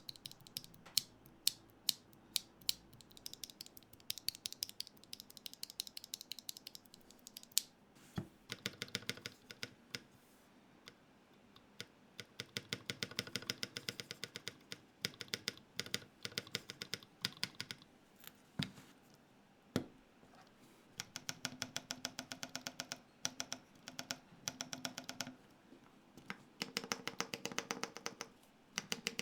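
Gok 7V mechanical keyboard's keys clacking in quick runs of presses between scattered single clicks, with a few louder knocks of plastic on the case.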